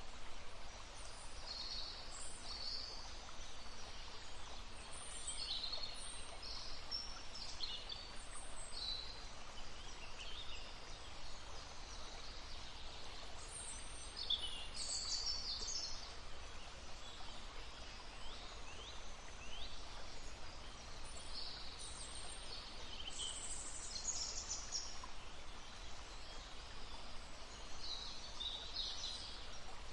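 Several songbirds singing and calling with short chirps and trills, scattered all through, over the steady babbling of a brook.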